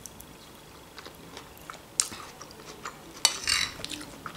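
A person chewing a mouthful of soft food, with small mouth clicks. Near the end a metal fork clinks and scrapes on a glass plate, the loudest sound.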